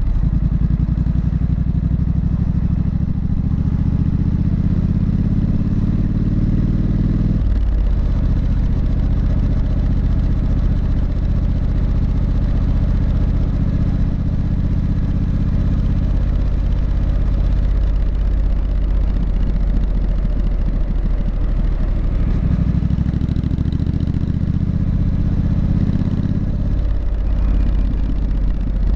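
Triumph Street Scrambler's parallel-twin engine and exhaust under way. The revs climb, fall sharply about seven seconds in, run steady and lower for a while, then climb again from about 22 seconds and fall again near the end.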